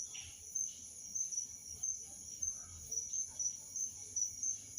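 Crickets chirping steadily at a high pitch in a fast, even pulsing rhythm.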